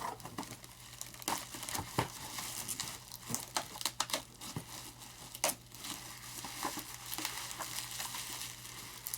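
Plastic packaging crinkling and rustling as it is handled and pulled off the airplane parts, with irregular sharp crackles.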